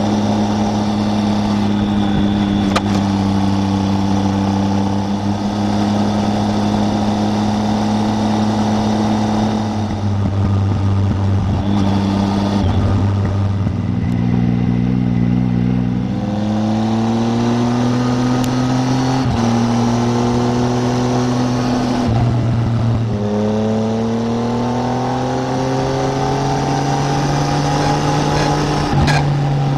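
Triumph Tiger 800's three-cylinder engine on the move: holding a steady speed for about ten seconds, then easing off and pulling away again, the pitch climbing through the gears with a short drop at each change.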